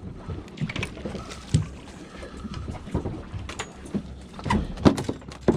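Irregular knocks and thumps on a small fishing boat, heaviest in a cluster near the end, over a background of wind and water noise.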